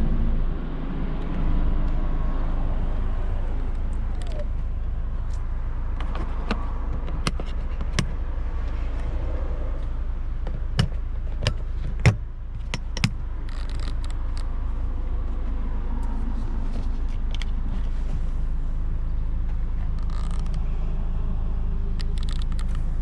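A 2017 Lexus RX 200t with a 2.0-litre turbocharged four-cylinder (8AR-FTS) driving in city traffic: a steady low engine and road rumble. A few sharp clicks or knocks come about halfway through.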